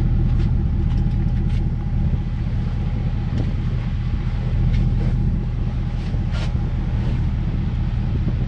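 Vehicle engine and road noise, a steady low rumble with a few faint clicks.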